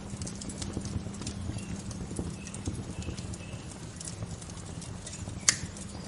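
Bonfire crackling with irregular snaps and pops, one loud sharp pop about five and a half seconds in, over a steady background rush. A few faint short bird chirps come midway.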